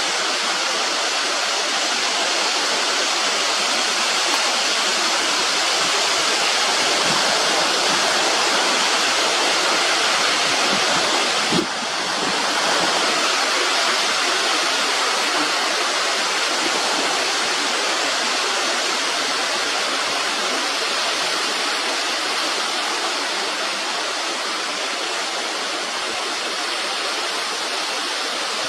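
Continuous steady rushing noise, like running water, with a brief click and a small drop in level about twelve seconds in; no bird calls stand out.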